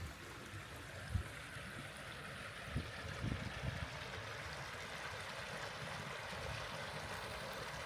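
Steady rush of a forest stream or waterfall, with a few soft low thumps about one and three seconds in.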